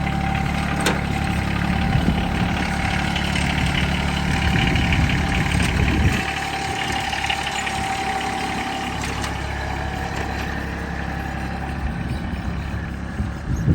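John Deere X750 lawn tractor's three-cylinder diesel engine running steadily, its sound dropping lower and quieter about six seconds in.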